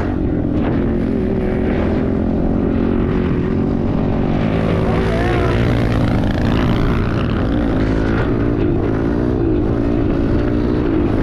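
Small single-cylinder four-stroke pit bike engine running while riding, its pitch rising and falling with the throttle, over a steady rush of wind noise.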